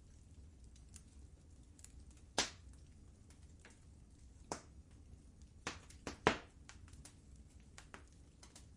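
Wood fire in a fireplace crackling, with scattered sharp pops: a loud one a little past two seconds in, another about halfway, and a cluster of three around six seconds in, over a low steady rumble.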